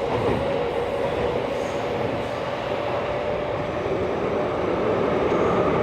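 Cabin running noise of a Tokyo Metro 16000-series subway car: a steady rumble of wheels on rail under a constant motor tone that dips slightly lower toward the end as the train slows for the next station.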